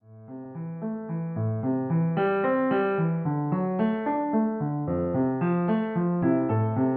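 Piano music: a quick, even run of repeated arpeggiated notes that fades in over the first couple of seconds.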